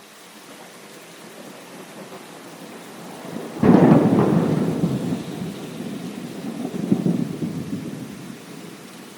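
Thunderstorm: steady rain, then a sudden thunderclap about three and a half seconds in that rumbles on, swells again a few seconds later and dies away into the rain. The rain fades in from silence at the start.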